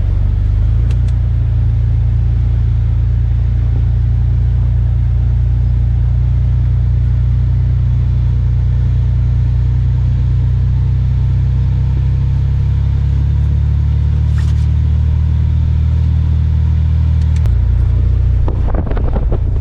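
Jeep Wrangler Unlimited driving on beach sand: a steady low engine and road rumble. The engine note shifts a little before the end.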